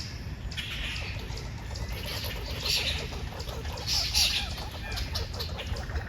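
Birds calling, about four loud rasping calls, with a faint rapid chatter underneath through the middle.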